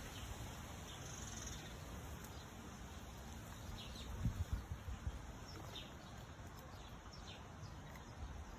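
Outdoor ambience with a steady hiss and a few faint, short bird chirps scattered through it, and a brief cluster of low thumps a little past the middle.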